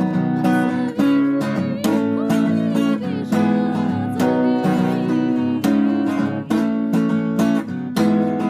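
Acoustic guitar strumming full chords in a steady rhythm, each strong stroke ringing into the next.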